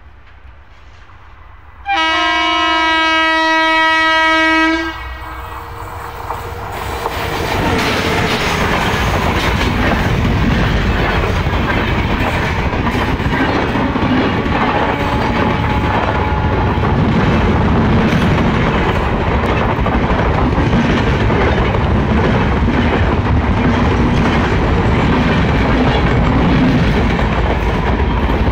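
A passenger train hauled by an electric locomotive sounds one long horn blast of about three seconds, starting about two seconds in. A rising rumble follows and becomes the steady clatter of the coaches' wheels on the rails as the train rushes past at speed.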